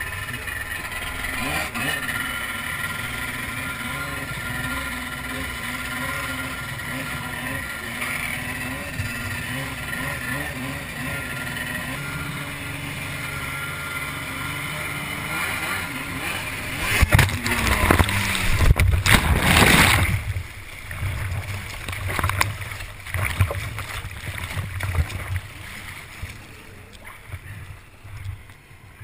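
Jet ski engine running with its pitch wavering up and down as the throttle changes. About two-thirds of the way through comes a loud rush of water spray and wind lasting a few seconds, after which the engine is quieter under uneven splashing.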